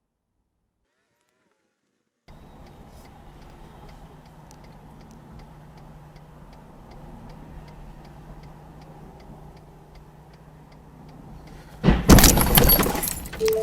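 Vehicle running steadily, with a faint fast regular ticking of about three ticks a second. About twelve seconds in, a sudden loud burst of crash noise.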